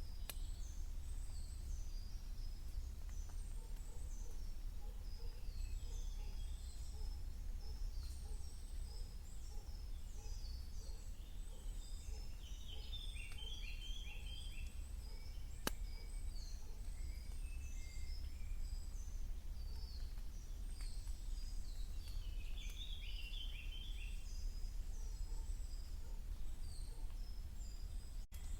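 Several songbirds singing in a spring woodland, many short phrases overlapping throughout, with two bursts of a fast trill about 13 and 23 seconds in. A steady low rumble runs underneath, and there is one sharp click about two-thirds of the way through.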